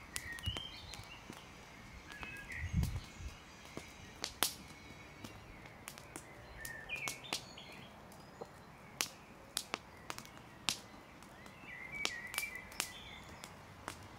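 Campfire wood crackling with scattered sharp pops, and birds chirping now and then. A dull thump about three seconds in.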